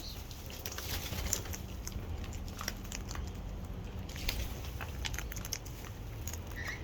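Parrots cracking and crunching seed in their beaks: a scatter of small, sharp, irregular clicks and crunches over a steady low rumble.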